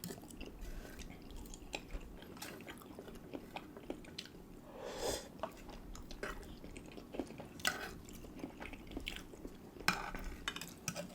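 People chewing food at close range, with scattered small clicks and clinks of cutlery and dishes. A brief louder noise comes about five seconds in, and a cluster of clicks near the end.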